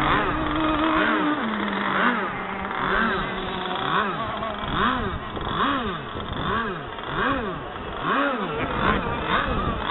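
Small two-stroke petrol engine of a radio-controlled racing hydroplane, idling briefly and then revved in quick repeated throttle blips, about one a second or a little faster, each rising and falling in pitch.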